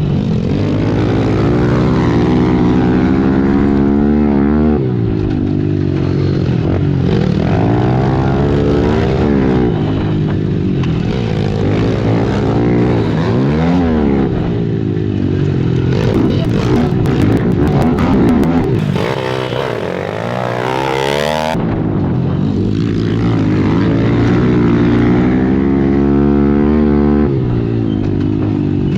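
Several 110cc single-cylinder four-stroke pit bikes racing, engines revving hard and rising and falling in pitch as they shift through the gears, their notes overlapping. The sound changes abruptly twice, about five seconds in and about two-thirds of the way through.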